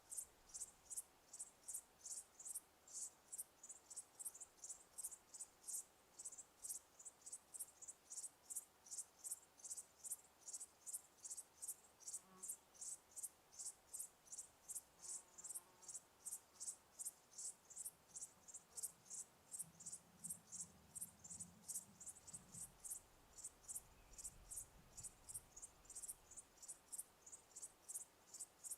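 A cricket chirping steadily in a regular high-pitched rhythm, about three chirps a second.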